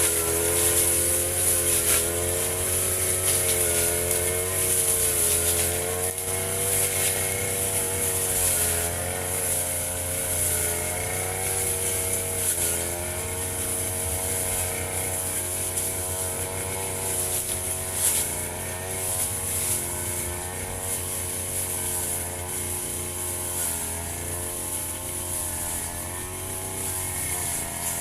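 Firman FGB 528 brush cutter engine running steadily at cutting speed, its pitch wavering slightly up and down as it cuts grass.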